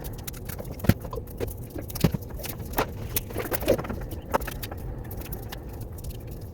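Scattered light taps, clicks and small rustles of craft materials being handled while a foot for a model bird is made, over a steady low hum.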